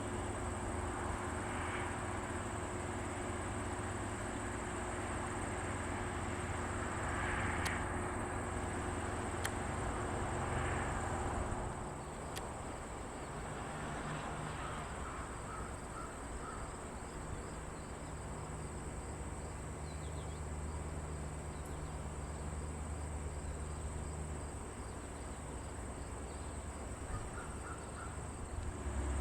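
Insects trilling steadily at a high pitch, late-summer outdoor chorus, over a low steady hum. Two short runs of quick chirps come through, one about halfway and one near the end.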